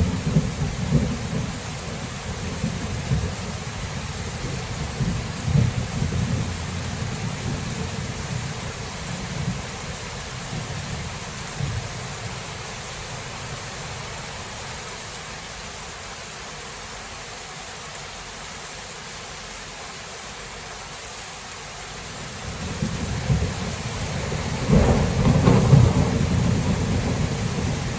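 Thunderstorm: steady rain with rolling thunder. A low rumble dies away over the first several seconds, and another roll of thunder builds a little after twenty seconds in, loudest near the end.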